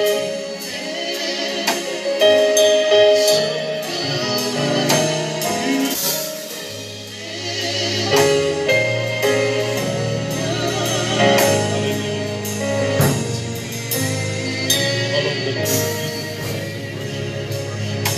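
Live gospel praise-and-worship music: singing over a band with drums. A bass line comes in about seven seconds in.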